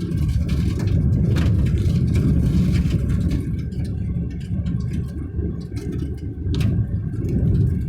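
Road vehicle driving along, a steady low rumble of engine and road noise, with a couple of faint knocks.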